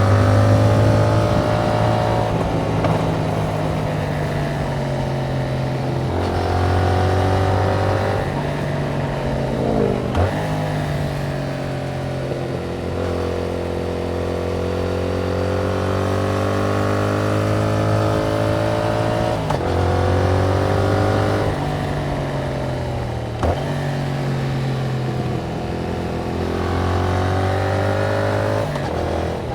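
Yamaha MT-07's parallel-twin engine through its stock exhaust, heard from the bike while riding: engine pitch rises and falls as it pulls through the gears, with several sudden breaks where the rider shifts.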